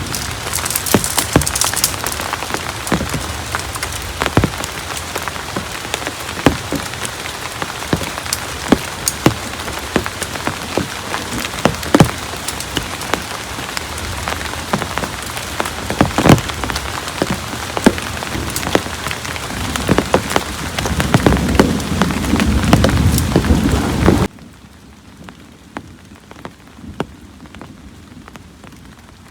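Heavy rain falling, a steady hiss with many sharp, loud drop impacts on a surface. Near the end a low rumble swells for a few seconds, then the sound cuts abruptly to a much quieter, duller rain hiss.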